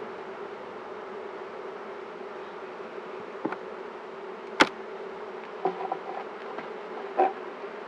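Honeybee colony buzzing steadily around an opened hive. A few sharp knocks break through it in the second half, the loudest just past the middle.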